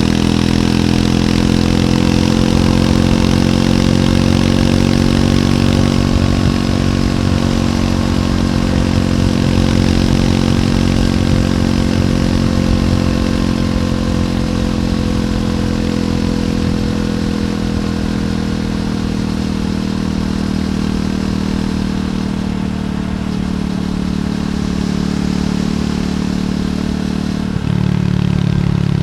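Triumph Scrambler 400X's single-cylinder engine running through its stock exhaust while riding. The engine note holds fairly steady, easing slowly lower, then steps up abruptly near the end.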